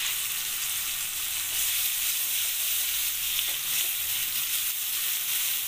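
Capsicum, onion, tomato and ketchup sizzling in a hot wok as they are stirred with a wooden spatula: a steady high frying hiss.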